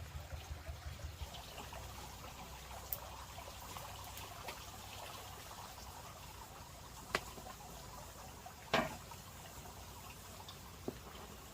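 Water trickling steadily, broken by a few sharp knocks, the loudest about nine seconds in.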